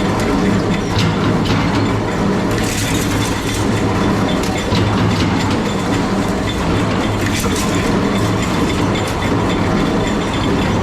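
Metalworking machinery running steadily with a low hum and scattered sharp metallic clicks and clatter.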